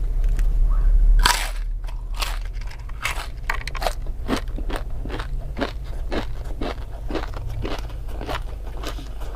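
Close-up eating sounds: a loud crunching bite into a crispy fried tempeh fritter with a raw bird's eye chili about a second in, followed by steady crunchy chewing at about three crunches a second.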